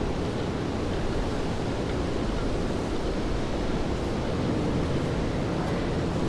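Steady rainfall on a city street: an even hiss of rain over a low, constant city rumble.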